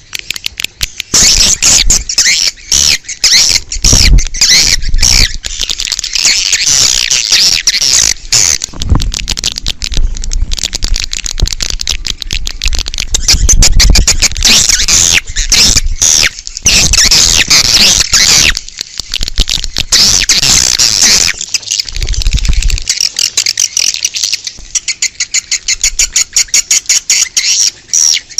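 Swiftlets twittering in a dense chorus of rapid high chirps and clicks, with a few low rumbles, thinning to sparser clicks near the end. This is an outdoor swiftlet call recording of the kind played to lure swiftlets to a nesting house.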